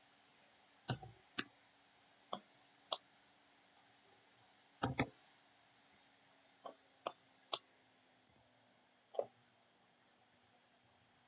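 Computer mouse clicks, about ten at irregular spacing, some in quick pairs, over a faint steady hum.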